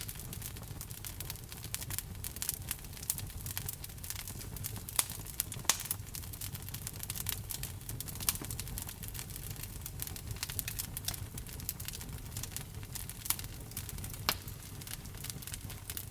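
Wood fire burning in a fireplace: crackling with frequent small pops and a few sharper snaps at irregular moments, over a steady low rumble of the flames.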